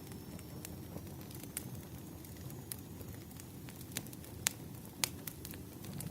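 Wood fire crackling: irregular sharp pops over a steady low rumble of burning logs, the loudest pops about four and a half and five seconds in.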